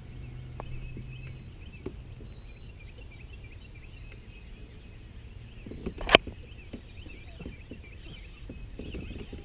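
Small birds chirping steadily from the shoreline trees, with a single sharp knock about six seconds in that is the loudest sound, and a few light ticks.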